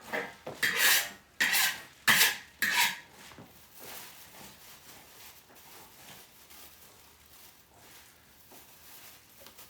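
A metal spatula scraping and knocking against a wok, four quick strokes in the first three seconds, as a dish is stirred and reheated over high heat.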